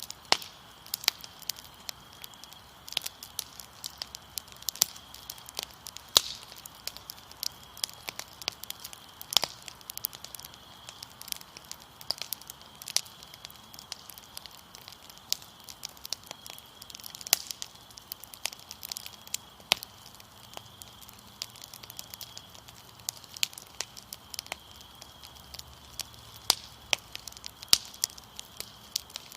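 Fire crackling, with irregular sharp pops and snaps, over a steady high trill of crickets.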